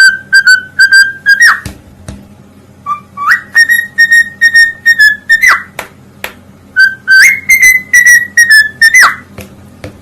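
Parrot whistling: three runs of rapid, repeated high notes, each run ending in a quick swoop in pitch.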